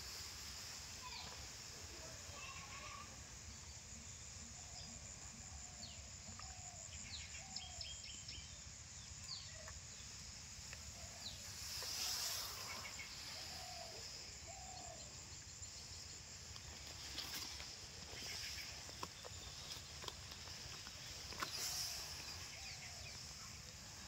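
Faint short bird calls, often in pairs, recurring every second or few over a steady high hiss, with a couple of brief rustles.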